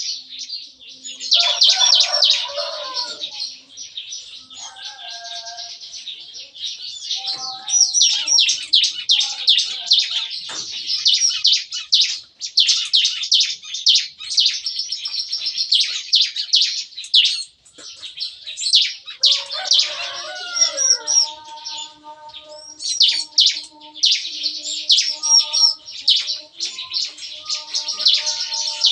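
Several bar-winged prinias singing busily together, a dense, unbroken run of rapid, sharp chirps and trills that rattles like gunfire. A few lower, steadier notes join in near the start and again from about two-thirds of the way through.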